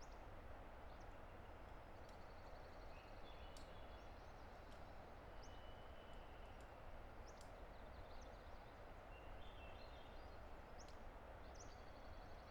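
Distant river rushing steadily and faintly, with several birds singing over it: high buzzy trills and short upswept chirps throughout.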